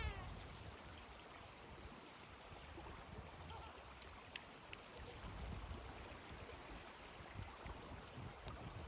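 Faint, steady rush of a mountain stream, with a few faint clicks scattered through it.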